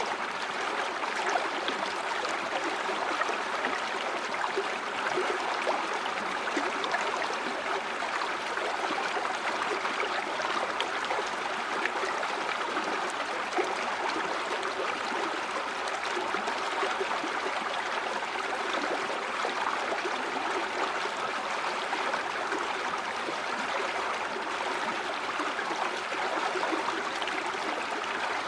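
River water flowing and gurgling over stones, a steady rushing with fine splashing.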